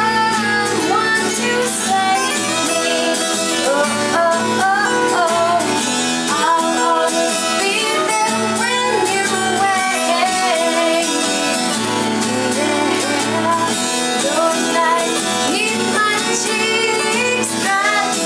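A voice singing a melody over strummed acoustic guitar.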